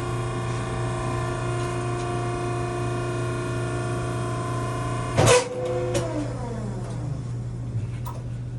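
Maren cardboard baler's hydraulic power unit running with a steady hum and whine. About five seconds in there is one loud metal clank, after which the whine falls in pitch and fades as the pump winds down, leaving a low hum.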